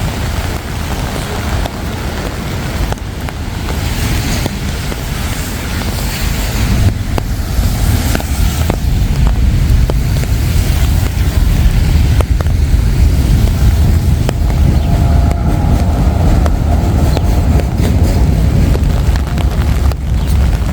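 Steady low rumble of city road traffic, growing louder from about six seconds in, with some wind on the microphone.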